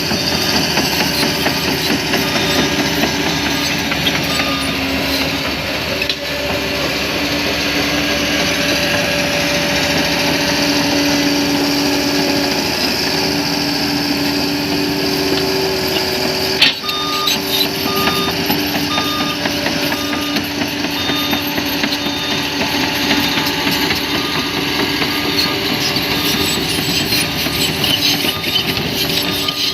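Crawler bulldozer's diesel engine running steadily under work, with its reversing alarm beeping in short, regular pulses for much of the time. A single sharp clank is heard a little past halfway.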